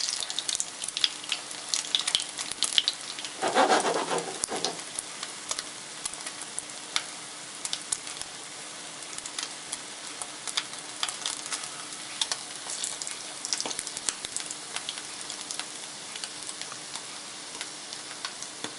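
Egg-dipped slice of bread frying in oil in a nonstick pan: steady sizzling with many small crackling spits, louder in the first five seconds. A brief louder sound comes about four seconds in.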